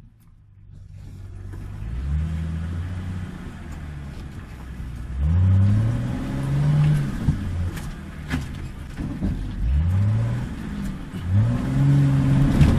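Off-road 4x4's engine revving up about four times, each climb in pitch held briefly before it falls back, with one sharp knock midway.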